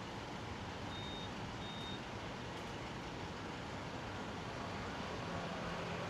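Steady outdoor wash of passing road traffic, with two short high electronic beeps about a second in. Near the end a vehicle engine hum grows louder as it comes closer.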